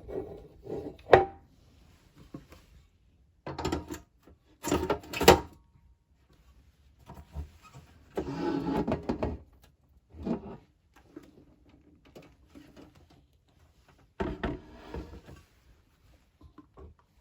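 Irregular handling noises: knocks, clunks and short rustles, with two loud sharp clunks about a second and five seconds in and a longer scraping or rustling stretch near the middle.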